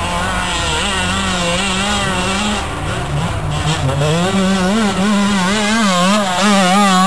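KTM 125 EXC's single-cylinder two-stroke engine running at high revs, its pitch wavering up and down quickly as the throttle is worked, with a dip in revs about three seconds in before it climbs again.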